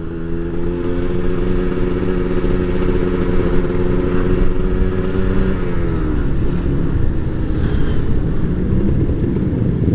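Motorcycle engine running at a steady speed under the rider, then its note drops a little over halfway through as the throttle is eased off, leaving a rougher rumble with road and wind noise.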